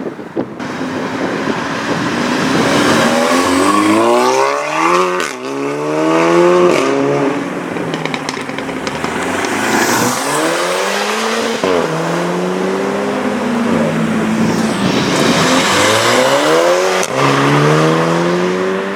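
Modified Volkswagen Golf accelerating hard through the gears: the engine note climbs in pitch, drops back at each upshift and climbs again, several times over. A few sharp pops come near the shifts.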